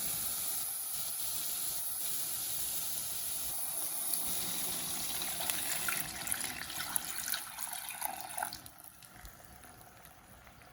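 Chicken stock poured into a hot pan of butternut, a steady pouring hiss that breaks into scattered crackles about six seconds in and dies down near the end.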